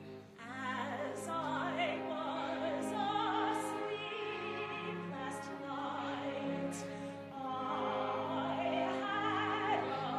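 Operatic singing: a high voice with wide vibrato, held long over an instrumental accompaniment of sustained notes.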